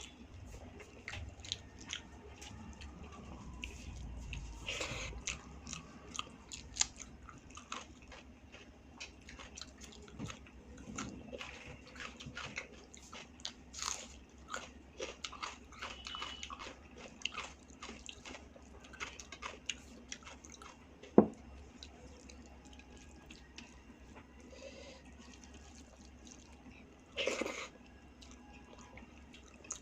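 A person chewing and biting food, with many small irregular crunches and wet mouth clicks, and one sharp, loud click a little past the middle.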